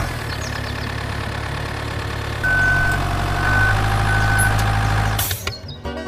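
Heavy truck engine idling steadily, stepping up in level about two and a half seconds in, with three short high beeps. It ends abruptly shortly before the end.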